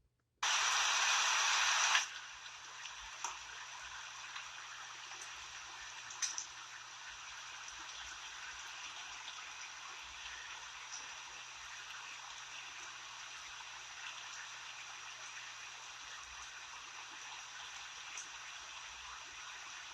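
Rain falling: an even hiss with scattered drops ticking. It starts abruptly, louder for the first second and a half, then settles to a steady, quieter patter.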